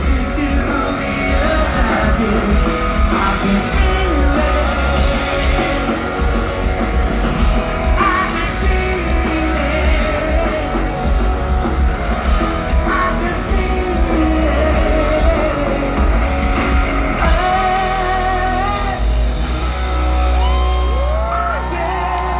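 A rock band playing live with singing. From about two-thirds of the way through, long wavering held notes ring out over the band.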